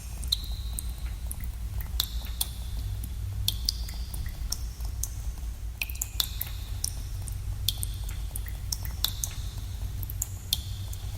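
Water drops falling into pools in a cave, a dozen or more irregular plinks, each with a short, high, ringing tone, over a steady low rumble.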